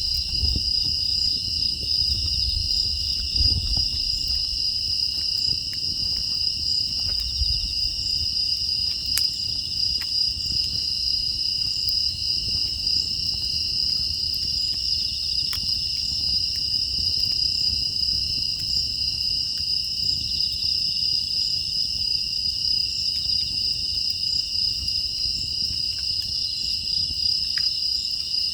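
Steady chorus of crickets and other grass insects, a continuous high trill at two pitches, over faint scattered crackles and a low rumble from a wood fire.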